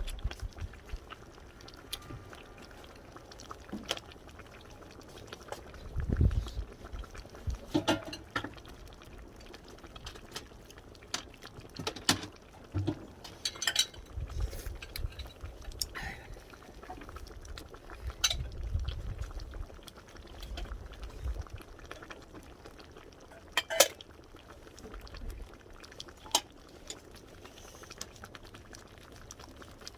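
A pot of pork-bone soup simmering over a wood fire, with scattered clinks of spoons, bowls and pot against one another throughout.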